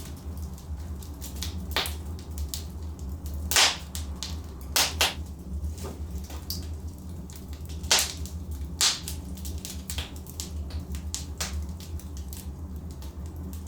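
Logs burning in a fireplace, crackling with a steady run of small snaps and about five louder pops, over a low steady rumble.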